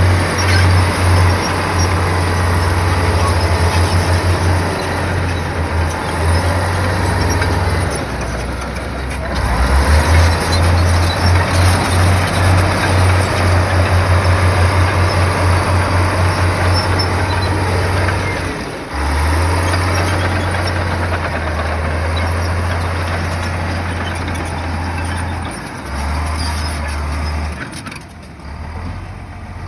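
Heavy diesel earthmoving machinery running under load, a deep engine throb that rises and falls as the load changes, dropping away briefly a few times.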